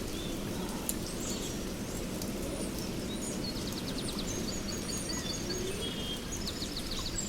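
Steady rain with birds chirping over it: runs of short, high repeated notes and trills, busiest in the middle of the stretch.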